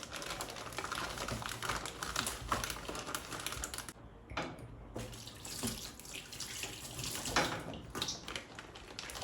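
Water running from a kitchen tap into a sink, with a short break about four seconds in.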